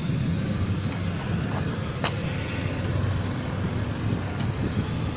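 A car engine running with a steady low rumble, and a sharp click about two seconds in.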